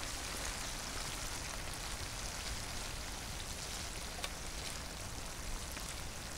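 Small freshwater shrimp and small fish frying in hot oil in a pan: a steady sizzle with scattered small pops.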